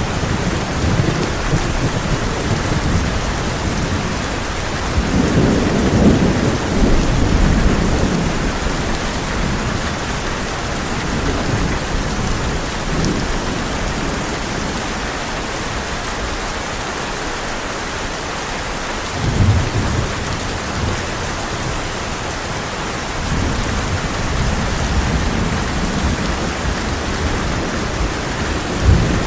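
Heavy rain on a tin roof, a steady hiss, with thunder rumbling low and swelling twice, about five seconds in and again near twenty seconds.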